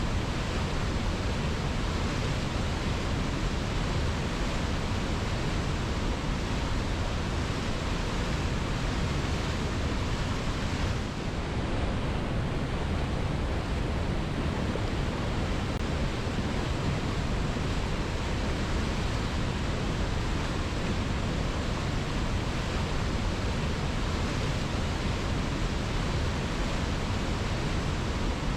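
Waterfall pouring over rocks: a steady, even rush of falling water, with a brief slight dip about eleven seconds in.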